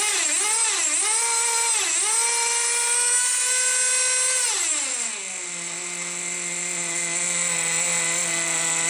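Small nitro glow engine of a Team Associated GT2 RC truck being revved: its pitch jumps up and wavers three times in quick blips, holds at high revs for a couple of seconds, then falls back about five seconds in to a steady idle.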